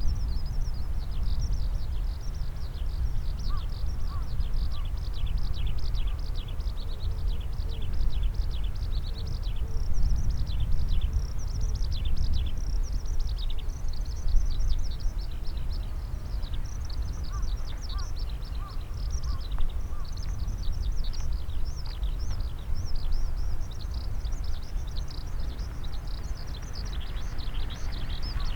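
Many small birds chirping and chattering in quick, overlapping high notes. Under them runs a steady low rumble of wind.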